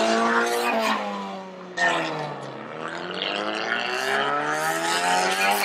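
A car engine revving under acceleration, its pitch climbing. It falls away after about a second, comes back sharply, then climbs steadily again as the car pulls away.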